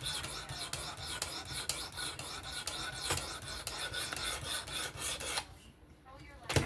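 Abrasive stone of a Work Sharp Precision Adjust Pro fixed-angle sharpener scraping back and forth along a knife blade's edge in quick, even strokes, about four or five a second. The strokes stop about five and a half seconds in, and a short knock follows near the end.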